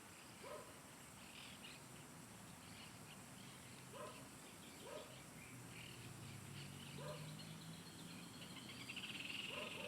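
Birds calling faintly: a short, low hooked note repeated five times at irregular intervals, among scattered higher chirps. A steady high buzzing trill starts about nine seconds in.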